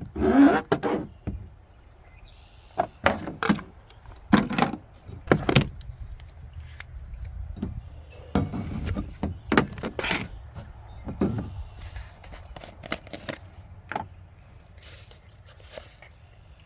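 A string of irregular knocks and clunks, hard objects being handled and set down, over a low steady rumble.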